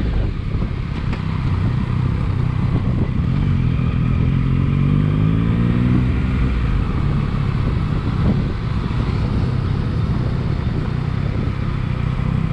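Motorcycle engine under way with a steady low rumble; about three seconds in it accelerates, its pitch rising for a few seconds before it eases off and settles back.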